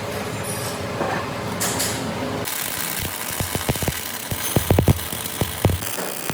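Machine-shop noise: a machine running steadily, then from about two and a half seconds in a hiss with a quick run of sharp metallic knocks and clicks.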